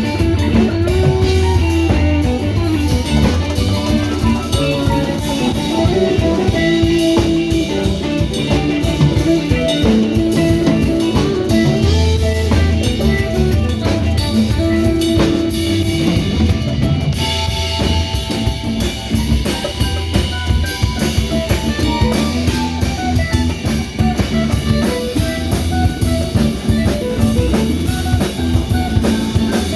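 A band playing an instrumental rock jam: a drum kit keeps a steady beat with rimshots under guitar lines.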